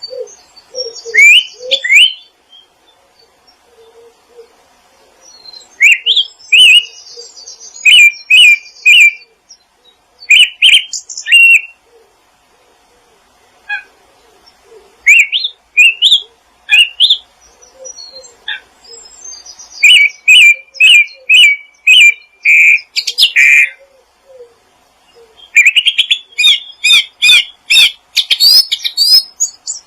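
Songbirds chirping in loud bouts of short, rising notes repeated in quick runs, with pauses of a second or two between bouts and soft low notes beneath.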